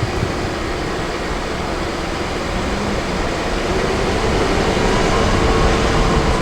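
A car running, heard from inside the cabin: a steady engine and road noise that grows a little louder as the car pulls forward, with a faint steady hum joining in about halfway through.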